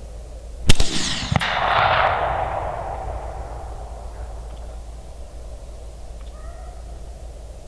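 .243 rifle shot: a sharp crack, a second crack about 0.7 s later, then a long rolling echo that fades over a few seconds.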